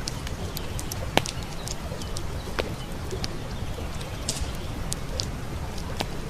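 Wood campfire crackling, with scattered sharp pops and snaps, the loudest about a second in, over the steady rush of a stream flowing nearby.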